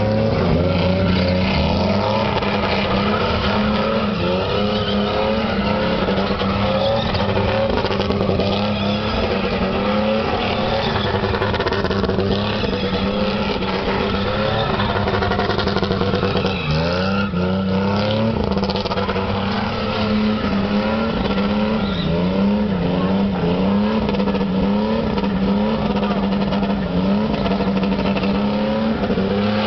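Car engine revved hard and held at high revs throughout. In the second half its pitch dips and climbs back about once a second.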